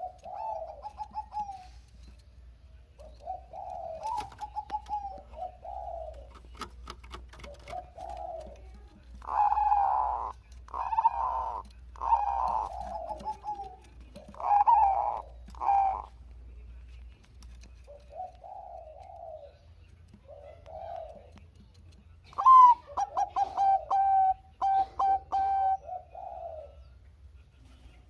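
Bangkok-strain zebra doves (perkutut) cooing in a string of short, warbling coo phrases. The phrases are louder in the middle, and a quick run of clipped coo notes comes near the end.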